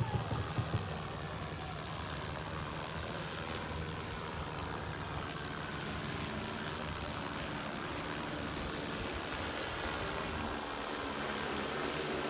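Crop-spraying drone's rotors whirring steadily, a rushing noise with a faint hum, with a few short bumps in the first second.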